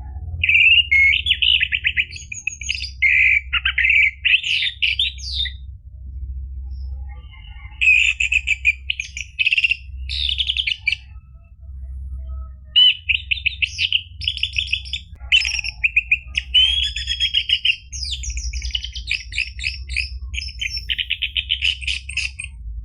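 Orange-headed thrush (anis merah) singing a rapid, varied song of trills and chattering phrases, in long bursts broken by short pauses, over a steady low hum.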